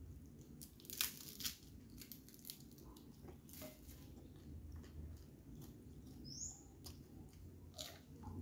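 Close-up eating sounds of martabak being chewed: faint wet mouth clicks and smacks, the sharpest about a second in. One short, high rising chirp past the middle.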